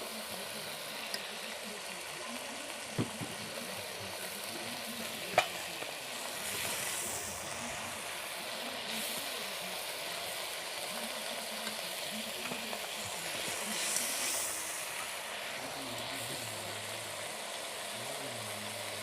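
Hot oil sizzling in a kadai as lightly browned marinated chicken pieces are stirred and lifted out, with a few sharp spatula knocks against the pan, the loudest about five seconds in.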